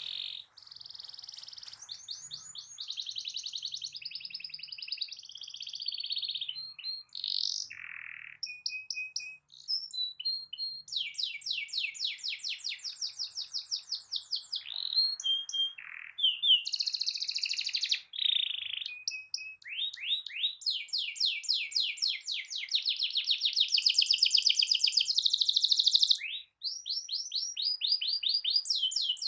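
Domestic canary singing continuously: long rolling trills of fast repeated high notes, one trill run changing into the next, with short single whistled notes in between.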